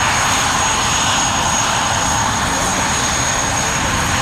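BAC Strikemaster jets' Rolls-Royce Viper turbojets running steadily through a low attack run, with a thin high whine over the jet noise.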